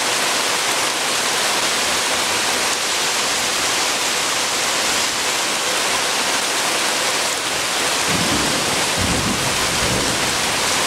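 Rain falling steadily, a dense even hiss of rain on the ground and surfaces, with a low rumble joining in about eight seconds in.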